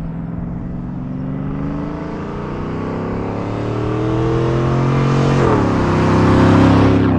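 2003 Silverado 2500's stock 6.0 L V8 with Speed Engineering long-tube headers and a catless rear-exit stainless dual exhaust, accelerating under full throttle. The engine note climbs steadily, drops with an upshift about five and a half seconds in, then climbs again and gets louder.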